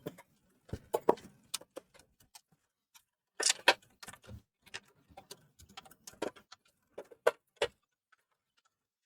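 Scattered clicks, taps and knocks of plastic and metal parts being handled and pried during disassembly of a PlayStation 4 Slim console, with a louder cluster of knocks about three and a half seconds in; they stop near the end.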